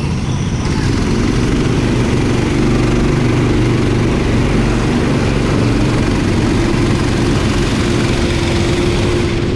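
Go-kart engine running steadily, its pitch wavering only a little, under a loud, even rushing hiss.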